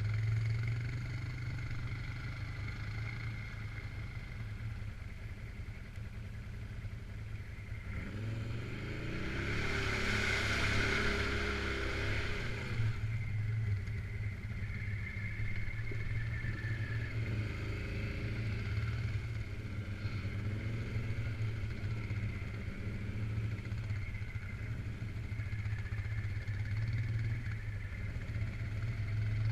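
Suzuki King Quad 750 AXI's single-cylinder four-stroke engine running steadily while the quad is ridden off-road. About eight seconds in there is a louder, rushing stretch of about five seconds in which the engine pitch rises and falls.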